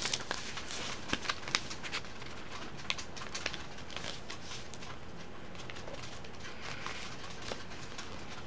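A sheet of paper being folded and creased by hand: soft scattered crinkles and taps, most of them in the first few seconds, over a steady hiss.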